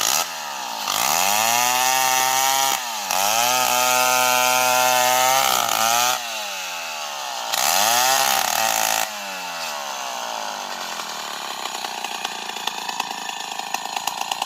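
Old Stihl 070 chainsaw's two-stroke engine revving up to full speed three times with short drops between, then falling back to a low, uneven idle.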